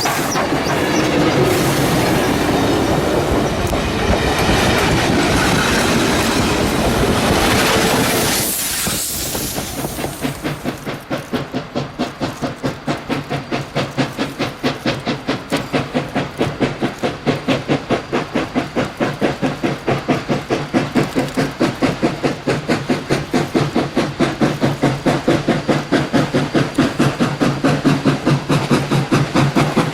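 Everett Railroad 2-6-0 No. 11 steam locomotive running. For the first several seconds there is a loud, rushing noise. From about ten seconds in a fast, even beat of about four to five strokes a second sets in and grows gradually louder.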